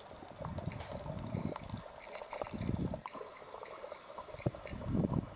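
Water sloshing and gurgling, with scattered faint clicks, picked up by a snorkeler's camera in the water.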